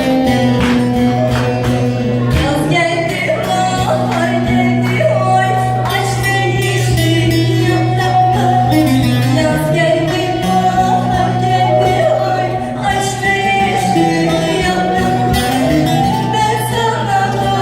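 A woman singing a Turkish song over instrumental accompaniment, with plucked strings and long held bass notes.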